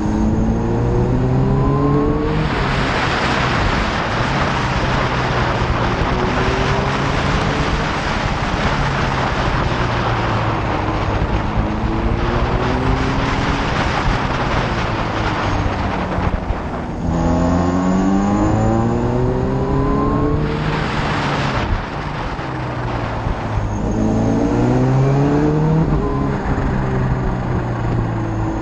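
Motorcycle engine accelerating hard through the gears, its pitch climbing and dropping back at each shift several times, under loud wind rush over the microphone at speed.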